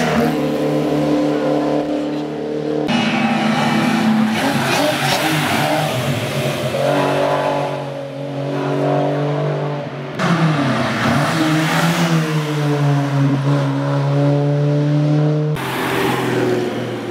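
Classic racing car engines accelerating hard, the revs climbing and dropping through gear changes. The sound cuts abruptly from one car to another three times.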